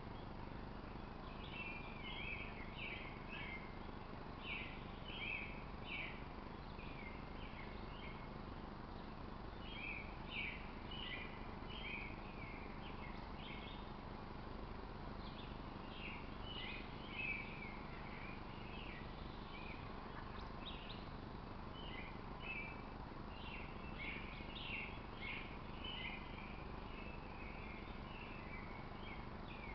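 Small birds chirping in quick, irregular high notes, on and off, over a steady low outdoor background noise.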